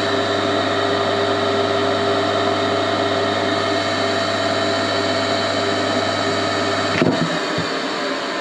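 Brooks Motors 1 hp single-phase electric motor running loud, a steady hum and whine. About seven seconds in there is a click, the deep hum cuts out, and the motor runs on more quietly.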